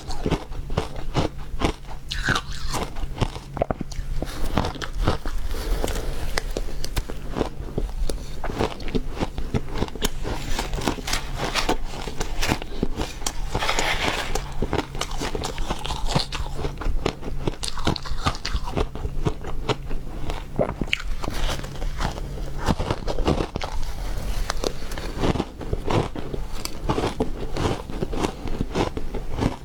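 Refrozen ice being bitten and chewed close to the microphone, a dense, continuous run of crisp crunches.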